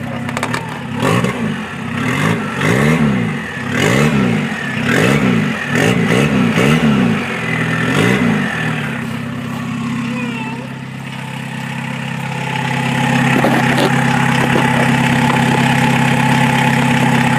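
A 1992 VW Jetta's 1.6 turbo-diesel engine is blipped about seven times in quick succession, each rev rising and falling, then settles to a steady run. Near the end it runs louder and steadily with a thin high whistle from the turbo, through a bad exhaust that needs repair.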